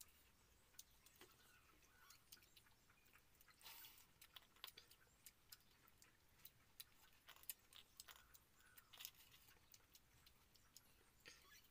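Faint sounds of eating water rice and omelette by hand: irregular small clicks and smacks of chewing, with a few softer rustles.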